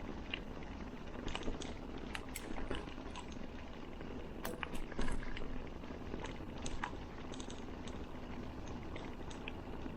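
Bicycle riding over a rough track: the tyres keep up a steady low rumble, with irregular clicks and rattles all through and a louder cluster about five seconds in.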